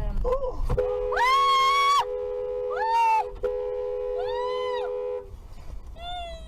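Car horn held down for about four and a half seconds, a steady two-note blare. Over it come several high, drawn-out wailing calls that rise and fall, the first the longest and loudest.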